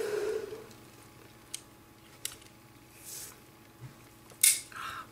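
A few faint clicks and taps of small die-cast toy parts being handled and fitted together, with a short, sharp breath through the nose about four and a half seconds in, the loudest sound.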